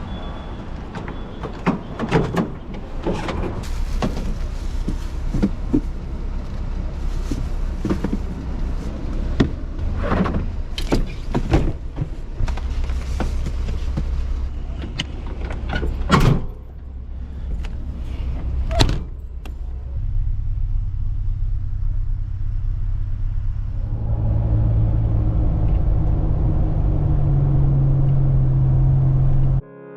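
A truck running, with repeated knocks and clatter over a low rumble. From about twenty seconds in there is a steady engine drone that rises in pitch near the end, as it accelerates.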